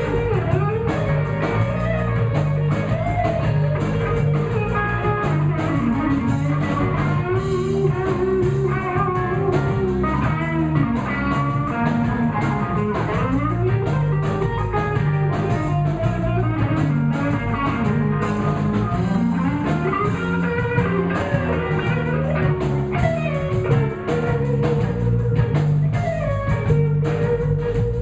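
Live blues band playing an instrumental passage, an electric guitar playing bending lead lines over bass and drums with a steady beat.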